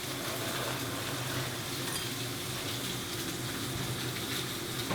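Food sizzling steadily in a hot pan on the stove, with a faint low hum underneath.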